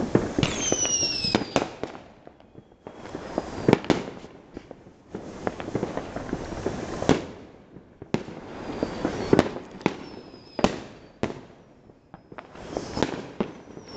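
Many fireworks going off at once: dense crackling and sharp bangs that come in waves with brief lulls. Several whistles fall in pitch, one about half a second in and others later.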